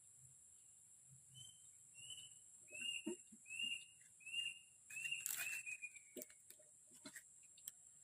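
A bird calling a run of about seven short, same-pitched chirps, roughly one and a half a second, over a steady high-pitched hiss, with a few faint clicks.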